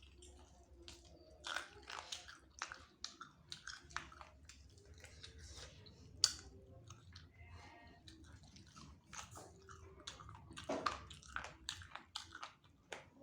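Close-up chewing and biting of chicken wings: irregular mouth clicks and smacks as the meat is eaten.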